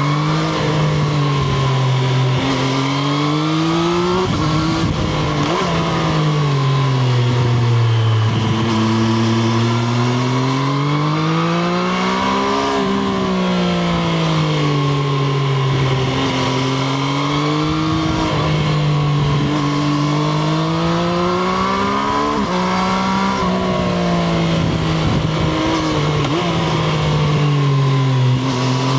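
Triumph Street Triple RS's 765 cc inline three-cylinder engine under way, revs rising and falling again and again as the bike accelerates and slows, with a couple of sudden pitch drops at gear changes.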